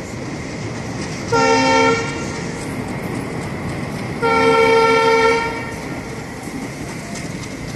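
Train horn sounding twice, a short blast about a second in and a longer one about four seconds in, over the steady running noise of passenger coaches rolling past on the adjacent track.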